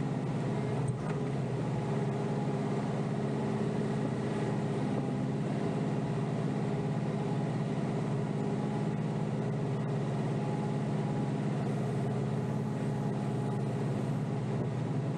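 Kioti DK5320SE tractor's diesel engine running steadily, heard from inside the cab as an even drone.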